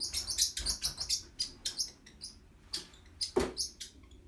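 Pet bird chirping in a quick series of short, high chirps, with one sharp knock about three and a half seconds in.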